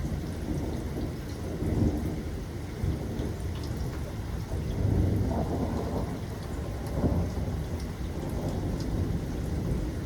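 Steady rain with rolling thunder. The low rumbles swell and fade several times, loudest about two, five and seven seconds in.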